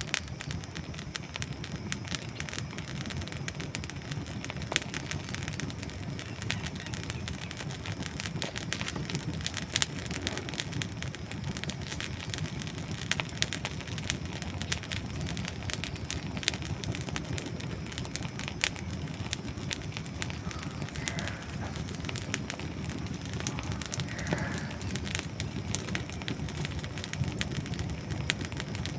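Wood campfire burning with a steady low rush of flame and frequent sharp crackles and pops of dry wood, a few standing out louder.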